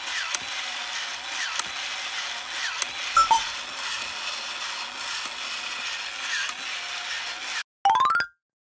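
Light mechanical clicking and ratcheting from a small mechanism over a steady hiss. Near the end comes a quick rising run of chirping tones that cuts off suddenly.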